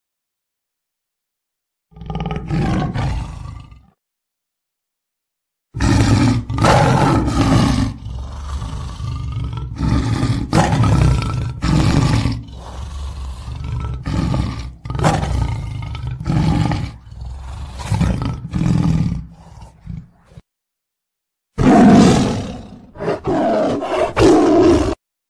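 Tiger roaring in repeated deep calls: one short call about two seconds in, a long run of calls broken by short gaps, and two more near the end.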